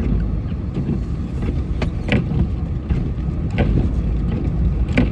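Truck driving through deep snow, heard from inside the cab: a steady low engine and road rumble, with a few sharp knocks and rattles.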